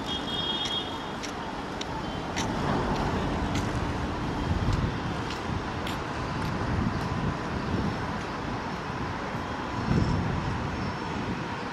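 Steady rumble of an approaching express train hauled by a WAP-7 electric locomotive, with a brief high tone at the very start and the rumble swelling near the end.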